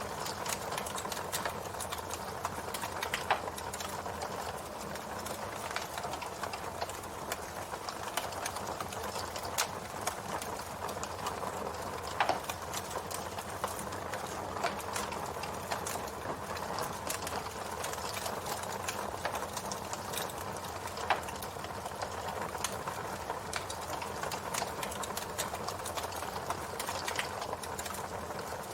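Campfire wood burning: a steady hiss of flames with constant small crackles, and a few louder pops and snaps spread through.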